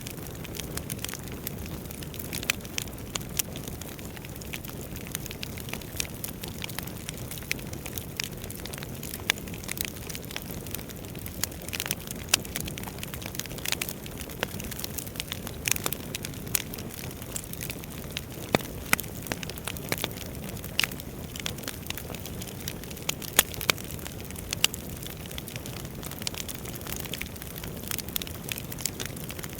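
Wood fire burning in a fireplace: a steady low rush of flame with frequent irregular crackles and pops.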